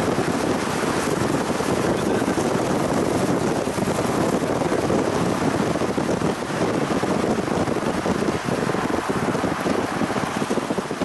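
Steady rushing wind noise over the rumble of a moving vehicle.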